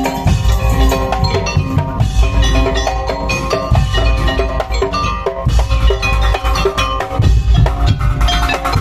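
Percussion-heavy live music: pounding drums with a strong bass drum under a melody of held notes that step up and down.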